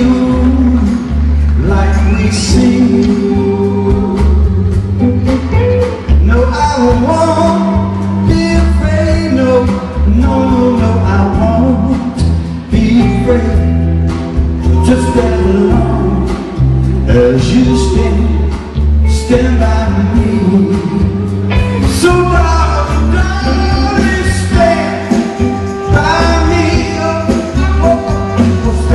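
A band playing a song with a singer, loud throughout over a strong, steady bass line.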